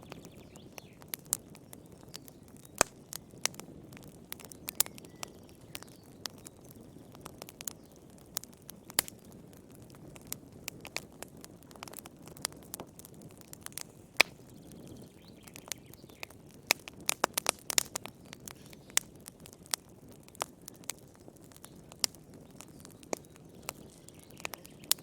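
Wood fire crackling: irregular sharp pops and snaps over a soft low hiss of the flames, with a quick flurry of pops about two-thirds of the way through.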